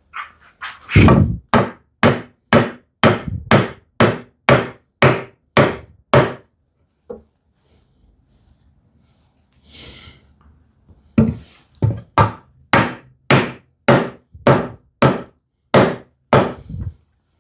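Hammer tapping a tenoned wooden rail into its mortise: a steady run of sharp wooden knocks, about two a second, then a pause of a few seconds and a second run of taps.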